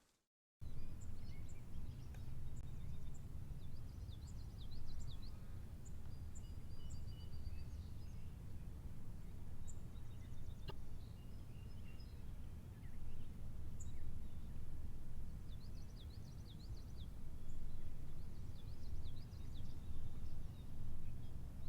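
Small birds chirping in short runs of quick, high chirps and trills over a steady low rumble of outdoor ambience. The sound begins after a moment of silence just after the start.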